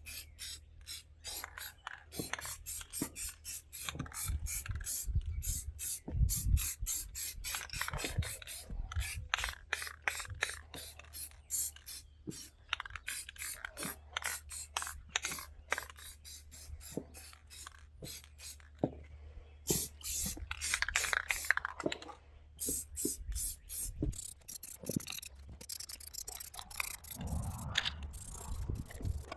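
Aerosol spray paint can being shaken, its mixing ball rattling several times a second, with spells of spraying hiss.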